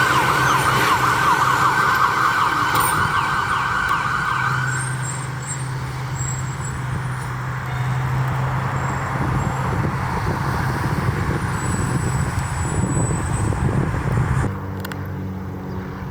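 Emergency vehicle siren in a fast yelp for about the first five seconds, over a steady low engine drone, then engine and road noise as the vehicle drives past. The sound cuts off abruptly near the end.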